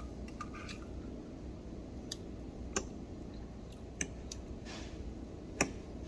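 A handful of sharp clicks at irregular intervals over a low, steady hum.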